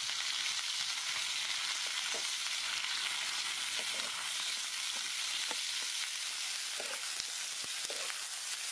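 Baby corn sizzling in a wok with a steady high hiss, while a wooden spatula stirring it gives scattered soft scrapes and knocks.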